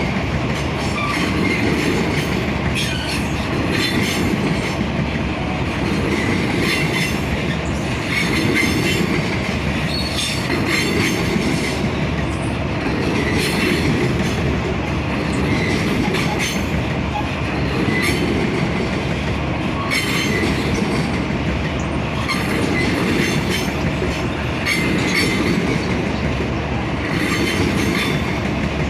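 Freight train cars rolling past, steel wheels clacking over rail joints in a regular rhythm every couple of seconds, with intermittent wheel squeal.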